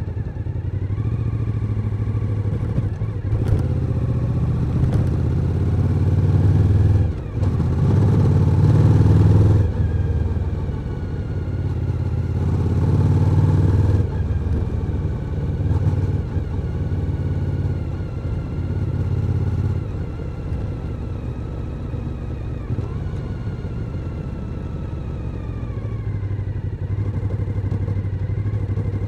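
Suzuki SV1000N's 996 cc V-twin engine on the move, pulling harder and rising in pitch in the first half with a brief sharp drop about seven seconds in, then running more steadily at a lower pitch before picking up again near the end.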